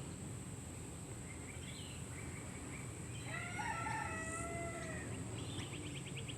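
A rooster crowing once, about three seconds in, a single drawn-out call of about two seconds that drops at the end. A quick run of faint high ticks follows near the end.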